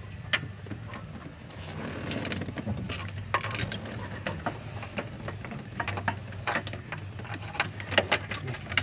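Metal tools and parts clinking and clicking in irregular, scattered taps during hand work on a fuel pump, over a steady low hum.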